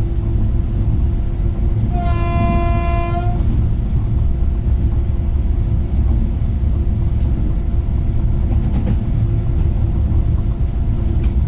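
Electric multiple unit (ŁKA 36WEd) running at speed, heard from inside the car as a steady low rumble. About two seconds in, a train horn sounds once for a little over a second.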